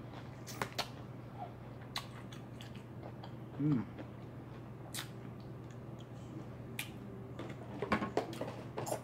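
Close-miked eating: chewing fried chicken with scattered sharp wet mouth clicks and smacks, a cluster of them near the end, and a short hummed 'mm' a little before the middle.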